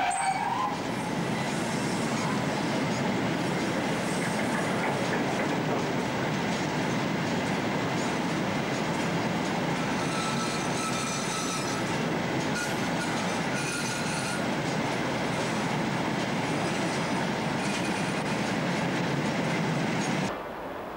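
A Class 60 diesel freight locomotive passes, followed by a long rake of open box wagons rolling by with a steady rumble of wheels on rail and faint high wheel squeal about halfway through. The sound cuts off abruptly near the end.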